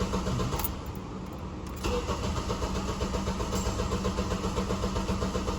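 Honda Accord 2.4 four-cylinder engine turning over on the starter with its injectors disabled, so it cranks without firing. The cranking drops away about a second in and picks up again near two seconds in with a steady, even beat, which sounds good: a sign of even compression across the cylinders.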